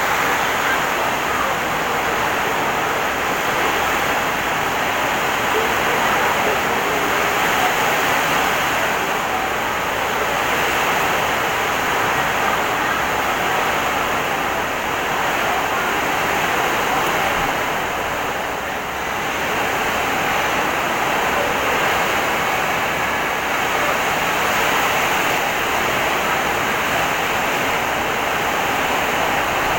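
Heavy rain pouring down with strong wind, a steady dense rush of noise that dips briefly about two thirds of the way through.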